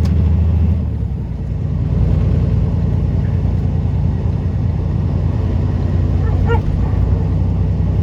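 Semi-truck diesel engine and drivetrain running under way, heard inside the cab as a steady low drone that drops in pitch and loudness about a second in, then picks up again. The driver calls the transmission rough; it is on its way in for repair. A short squeak comes about two-thirds of the way through.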